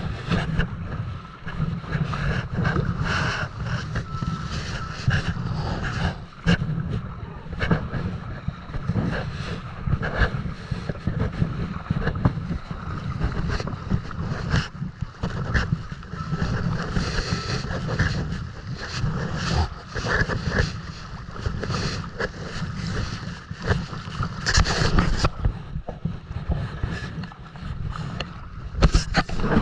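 Wind buffeting the microphone over a kayak on the sea, with irregular splashes and knocks of water and paddle strokes throughout.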